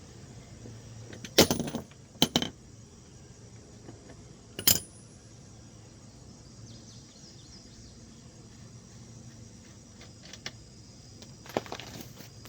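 Metal hand tools, a wrench and sockets, clinking and clanking against each other and the bike's rear axle hardware: a few sharp separate clanks in the first five seconds, then a quicker cluster of clinks near the end.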